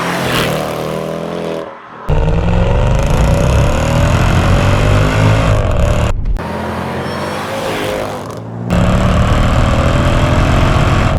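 Supercharged 5.4-litre V8 of a Mercedes-Benz S55 AMG (W220) running loud through its exhaust, its note rising as it accelerates, in several takes joined by abrupt cuts.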